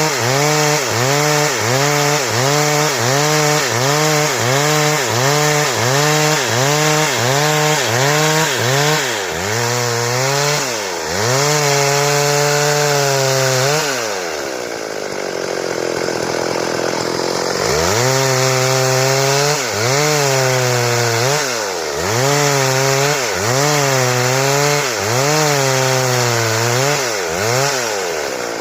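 Stihl chainsaw cutting wood, its engine pitch dipping and recovering about every half second as the bar bogs in the cut. About two thirds of the way through it slows to a low pitch for a few seconds, then revs back up and the rhythmic cutting resumes.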